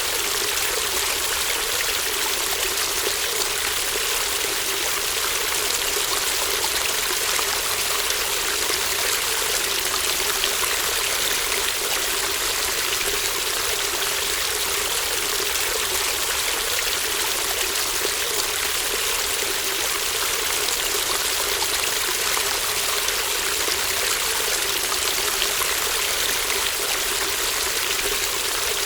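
A small stream babbling and trickling over stones, steady throughout.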